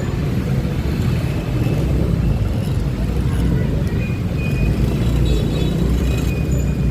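Steady rumble of a ride on a Honda Click 125i scooter in city traffic, engine and wind noise mixed with the surrounding vehicles, with a few faint high squeals.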